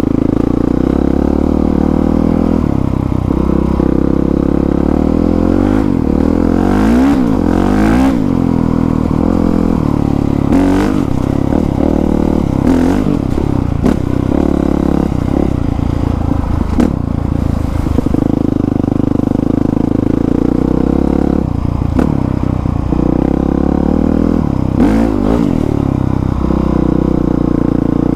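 Honda CRF450R dirt bike's single-cylinder four-stroke engine, fitted with an aftermarket exhaust, running and revving up and down repeatedly as it is ridden over a trail. A few clattering knocks and scrapes break in now and then.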